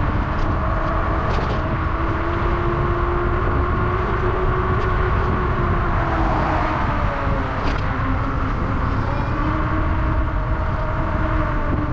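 Wind rushing over the microphone while riding an e-bike, with a steady whine from the electric motor that drifts slowly up and down in pitch as the speed changes.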